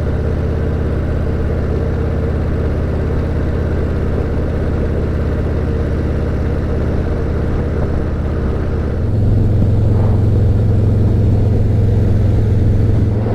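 Harley-Davidson Road Glide ST's V-twin engine running steadily while riding at road speed. About nine seconds in, the engine note gets louder and stays there.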